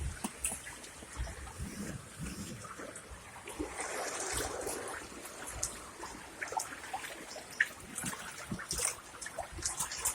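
Water trickling and dripping, with many small irregular splashes.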